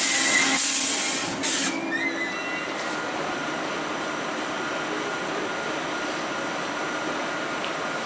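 A DB Regio double-deck train moving along the platform: a loud hiss with steady whining tones, cut off about a second and a half in. Then a standing ICE 3 high-speed train's on-board equipment running: a steady hiss with a faint steady high whine.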